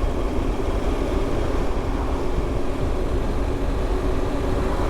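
Motorcycle riding along, its engine running steadily under a wash of wind and road noise.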